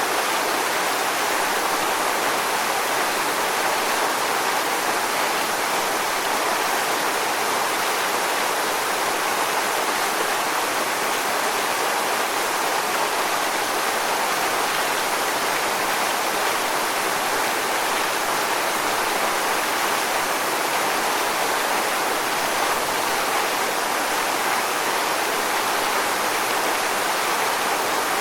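Waterfall: water falling and rushing in a constant, even roar with no breaks.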